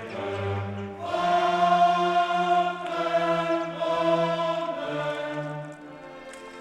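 Background choral music: a choir singing slow, held chords, the sound dropping away near the end.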